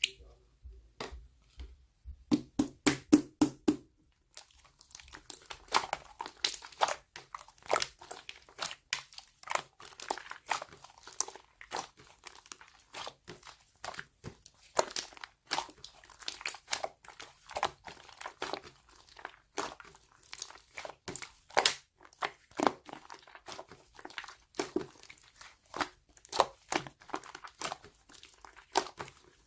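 Slime being squished and pressed by hand, making irregular crackling clicks and pops, with a quick run of loud pops about two seconds in.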